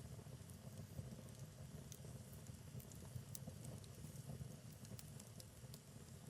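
Wood fire burning in a fireplace: a steady low rumble of the flames with scattered, irregular sharp crackles and pops.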